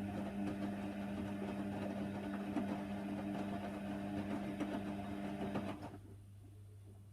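Hoover Nextra HNWL 7146 washer dryer running mid-wash on a Cotton 60 programme: a steady motor hum with rattling from the machine, which stops about six seconds in, leaving a faint low hum.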